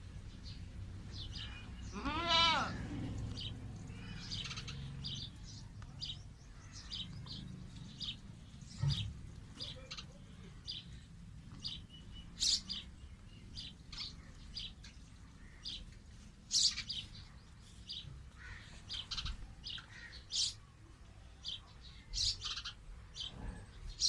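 Sparrows chirping: many short, high chirps scattered irregularly throughout. About two seconds in, a louder, long quavering animal call stands out from them.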